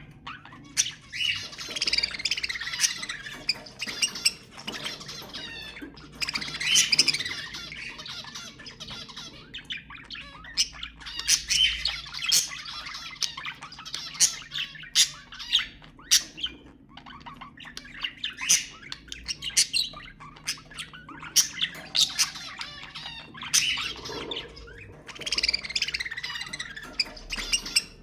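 Budgerigars chattering and warbling, with sharp squawks and chirps that come in bursts of a few seconds.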